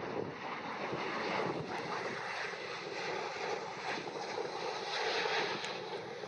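Jet airliner engines heard as an even rushing noise, swelling slightly and easing off near the end, with wind on the microphone.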